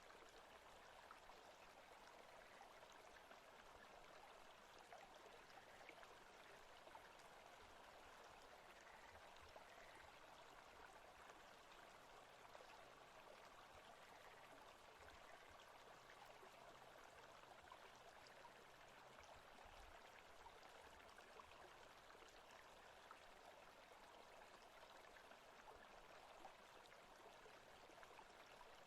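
Faint, steady forest ambience of running water, an even hiss with no breaks or changes.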